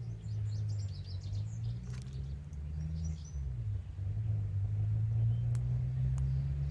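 A low engine hum whose pitch drops and rises again several times, with bird chirps in the first few seconds.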